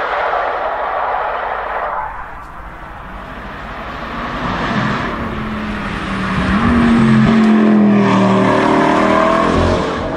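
Bugatti W16 hypercars driving hard past: a first car's engine noise drops away about two seconds in, then a Bugatti Chiron's 8.0-litre quad-turbo W16 approaches, its engine note rising, and is loudest as it passes and pulls away over the last few seconds.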